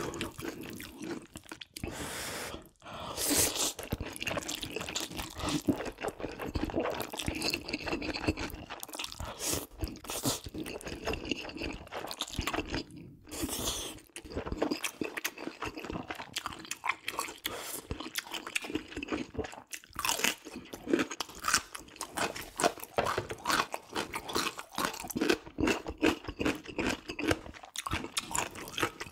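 A person chewing and biting into food close to the microphone, with many quick, irregular crunches and brief pauses between mouthfuls.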